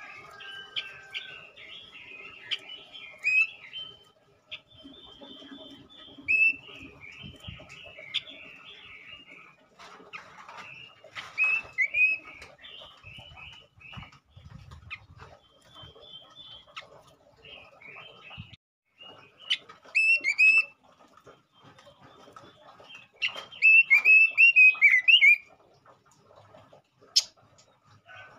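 Male Pekin robin (red-billed leiothrix) singing in short, quick warbled phrases, with a louder run of rapid notes near the end. This is a lure song meant to set other male robins singing.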